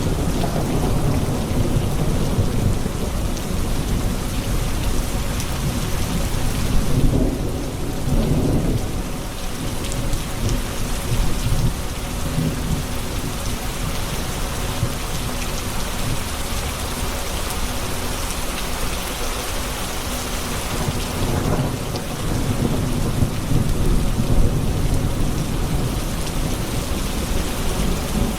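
Steady rain pouring down during a thunderstorm, with low rolling thunder that swells a few seconds in and again near the end.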